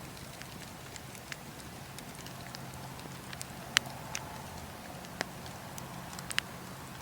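Wood campfire crackling, with irregular sharp pops of burning logs and embers, the loudest a little under four seconds in, over a steady low background.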